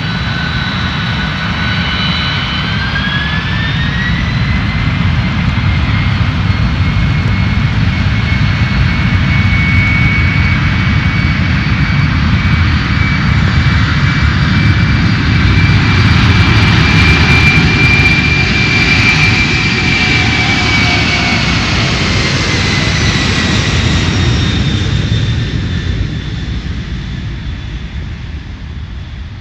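A jet airliner's engines: a whine that rises in pitch about three seconds in, over a steady rumble, growing louder to a peak past the middle and then fading away as the aircraft passes.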